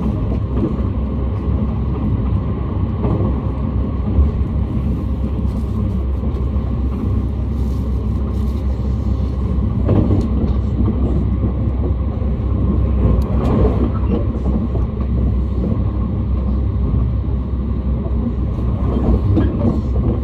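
JR East train running, a steady low rumble of wheels on rails heard from inside the carriage, with a few brief swells.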